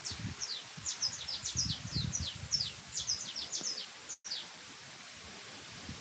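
Small birds chirping: many short, high, falling chirps in quick succession that cut off suddenly about two-thirds of the way through, leaving a steady hiss. A low rumble sits under the first half.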